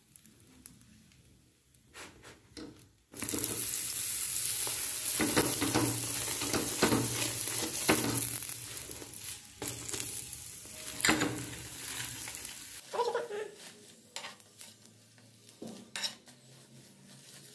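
A paratha frying on a hot tawa: from about three seconds in, fat sizzles loudly on the pan, with a steel spoon scraping and tapping against the griddle. The sizzle dies down after about ten seconds, leaving a few scattered taps.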